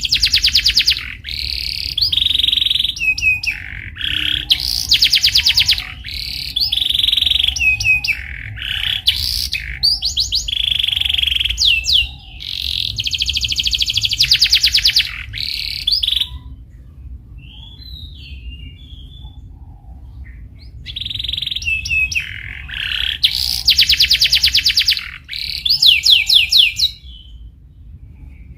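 Domestic canary singing: fast rolling trills and chirping phrases, one after another, with a quieter stretch of a few soft chirps in the middle.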